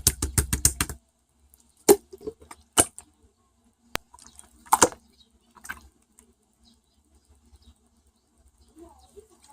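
A quick run of sharp clicks ending about a second in, then a few scattered taps and clicks with quiet gaps between them.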